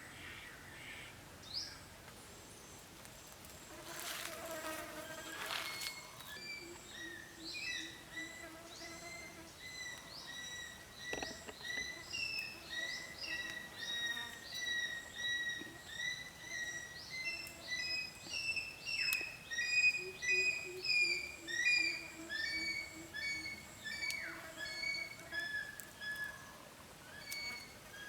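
Birds chirping in quick, repeated short high notes, about two a second, through most of the stretch, with a faint low buzzing hum coming and going underneath.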